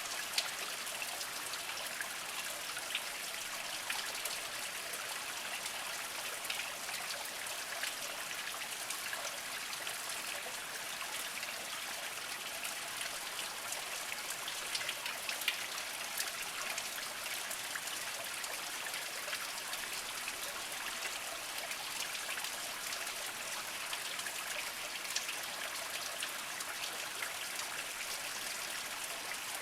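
Small spring water trickling over mossy rocks: a steady, high, splashy trickle with scattered drips and plinks.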